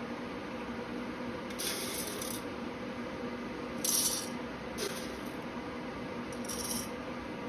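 Whole coffee beans being weighed out, dropped into a container in four short rattling spurts; the loudest comes about four seconds in. A steady low hum runs underneath.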